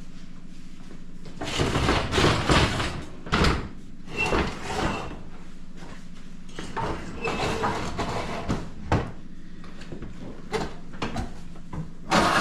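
Irregular scraping and clattering as a dishwasher is handled and taken apart, in several bursts with pauses between them, over a steady low hum.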